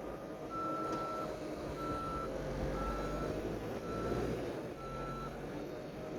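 Skid steer's backup alarm beeping five times, about once a second, as the machine reverses, over the steady rumble of its engine.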